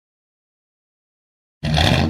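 Dead silence, then about a second and a half in a 1931 Ford Model A's four-cylinder engine cuts in abruptly, running and being revved.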